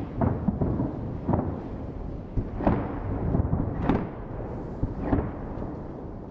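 Thunder rumbling, with sharp cracks about every second and a quarter over a continuous deep rumble, fading out near the end.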